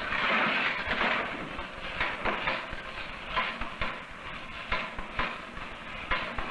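A mechanical fear toy with moving parts set going to frighten an infant monkey: an irregular clanking rattle with many sharp clicks.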